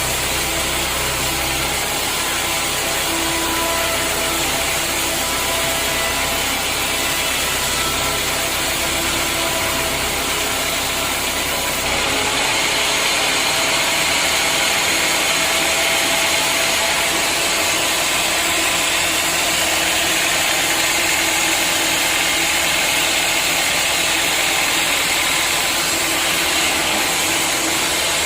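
Sawmill machinery running with a loud, steady mechanical noise made up of several held tones. About twelve seconds in, the deep hum drops away and a brighter hiss takes over.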